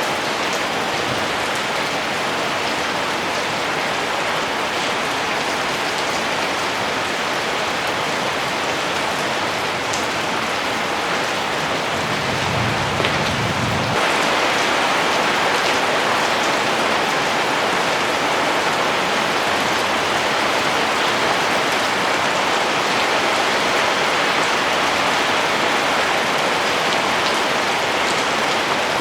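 Steady rain falling: an even, dense hiss with scattered drop ticks. About halfway through there is a brief low rumble, and the rain then gets a little louder.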